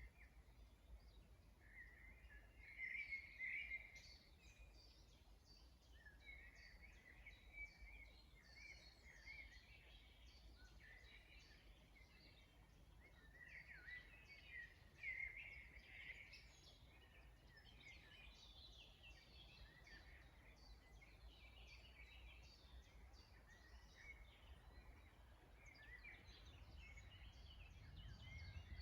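A faint chorus of songbirds, many short chirps and trills overlapping, over a low steady rumble of background noise.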